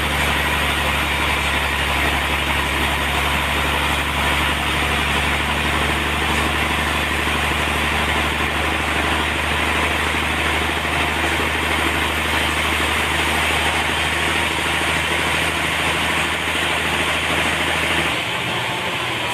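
Sawmill running while sawing a large trembesi log: a steady low engine hum under a dense, even saw hiss. About 18 seconds in, the low hum drops away.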